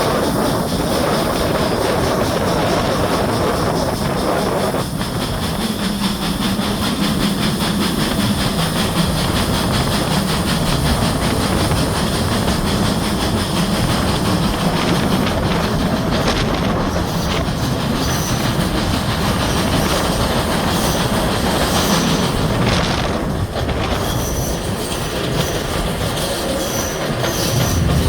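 A train running on rails, with a steady rumble of wheels on track and faint high wheel squeal coming and going in the second half.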